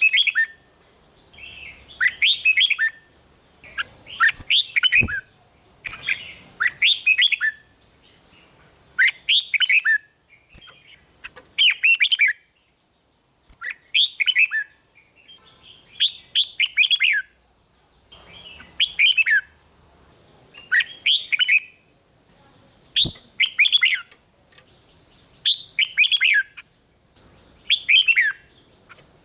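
Red-whiskered bulbul singing: short, bright phrases of several quick whistled notes, repeated about every one and a half to two seconds.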